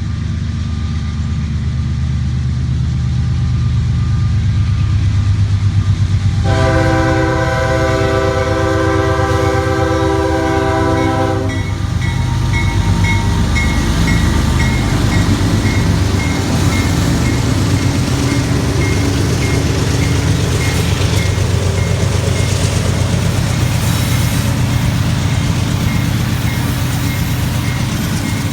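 Freight train with diesel locomotives running past, their engines a heavy low rumble, and the air horn sounding one multi-tone blast of about five seconds starting about six seconds in. The freight cars then roll by with steady rhythmic wheel clatter.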